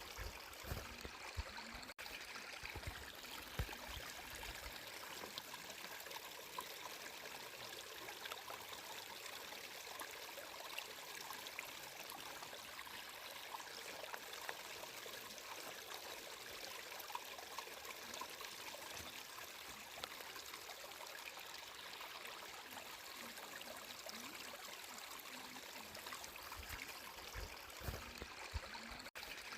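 Flowing water in a stream, a steady, faint rush and trickle, with a few short low thuds in the first few seconds and again near the end.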